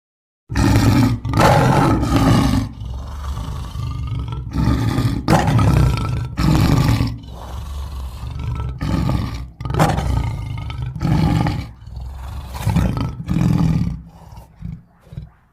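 A string of loud, rough roars and growls used as a werewolf character's sound effects. They start suddenly about half a second in and come one after another, with short gaps between them. Near the end they break into short, quieter growls.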